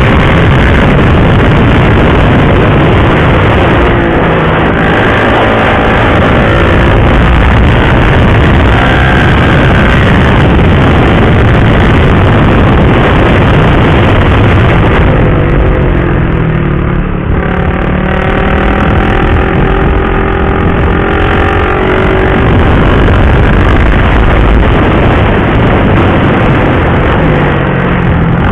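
Motorcycle engine, a KTM RC 390 single, at riding speed under heavy wind rush, its pitch rising and falling as it works through the gears. A little past halfway it eases off briefly with the pitch dropping, then pulls again.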